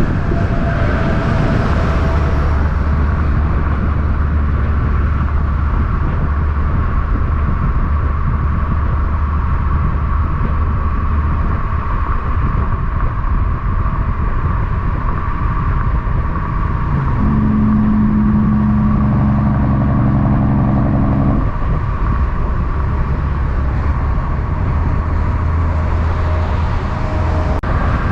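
Road traffic with heavy trucks going by: a low engine drone for several seconds early on, a stronger, higher engine note for about four seconds past the middle, and another low drone near the end, over steady road noise.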